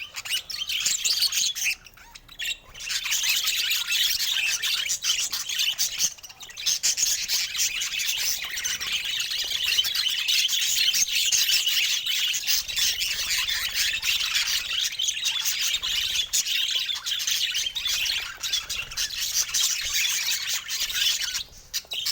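Budgerigar chatter: continuous high chirping and warbling, breaking off briefly about two seconds in, again about six seconds in, and near the end.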